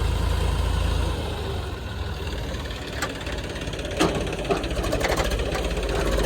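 Diesel engine of heavy farm or construction machinery running at idle, with two sharp knocks about three and four seconds in.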